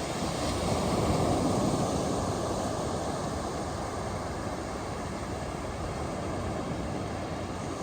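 Ocean surf: a wave breaks and rushes up the beach about a second in, then eases into a steady wash.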